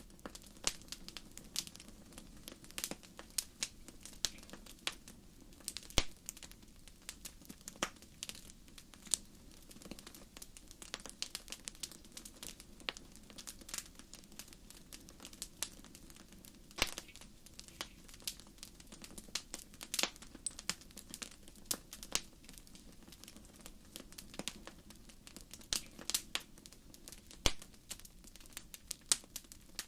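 Wood fire crackling in a fireplace: irregular sharp pops and snaps, several a second, with a few louder ones, over a soft steady low rush.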